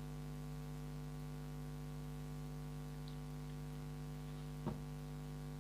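Steady electrical mains hum on the recording, with one short click near the end. The hum is the audio fault the uploader apologises for.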